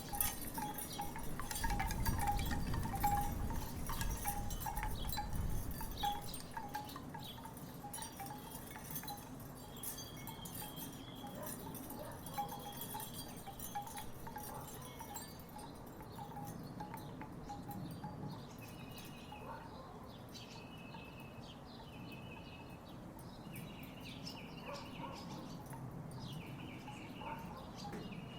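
Wooden tiki wind chimes knocking and clacking together in the breeze, many quick hollow wooden knocks with short tones, busiest in the first half, over a low rumble in the first few seconds. In the second half a bird calls again and again with short high notes.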